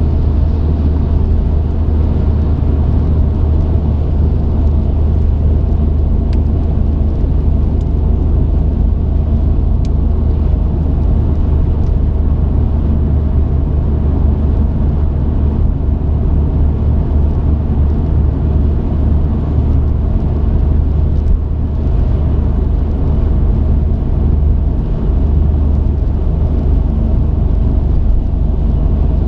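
Truck engine and road noise heard from inside the cab while driving: a steady, loud low drone that holds even throughout.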